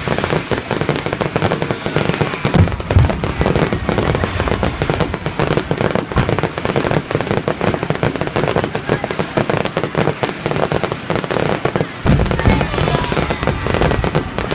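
Fireworks display: a dense, continuous barrage of bursting shells and crackling, with heavier booms about two and a half seconds in and again near the end.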